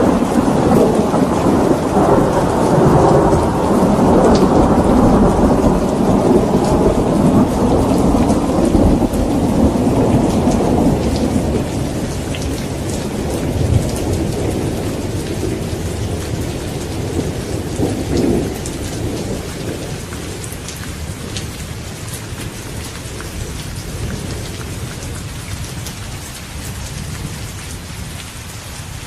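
Steady rain pattering, with a long rolling thunder rumble that is loudest in the first half and slowly dies away. Two short cracks stand out about 14 and 18 seconds in.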